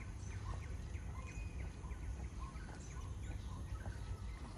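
Birds chirping: many short, quick chirps overlapping throughout, over a steady low rumble.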